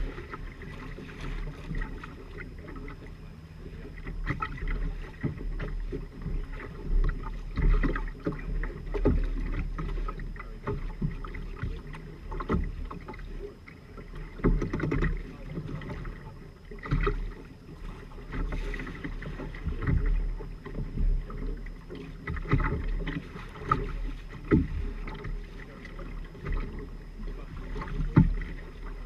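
Water rushing and splashing along the hull of a Firefly 26 trimaran under sail, rising and falling in irregular surges every second or two over a low rumble.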